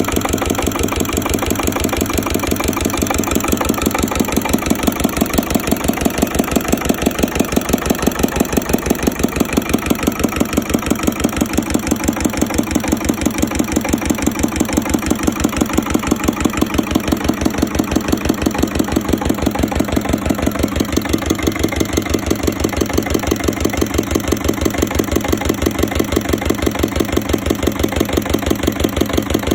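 Ruston engine running at a slow, steady speed, with an even beat of about five firing strokes a second. It grows louder a few seconds in, then holds steady.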